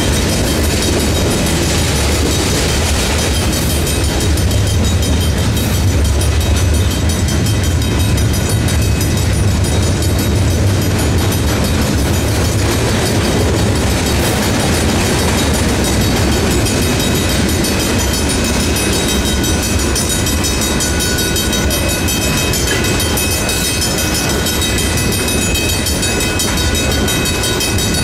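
Freight train cars rolling through a grade crossing: a loud steady low rumble with clacking wheels over the rail joints, while the crossing's Griswold mechanical bell rings steadily over it.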